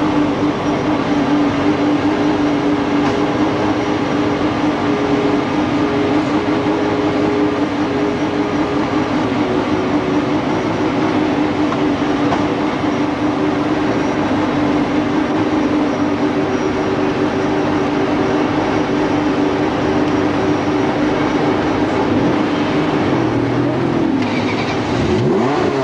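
Ferrari engine idling close by, a steady drone that holds one pitch. Near the end an engine is revved, its pitch sweeping up and then down.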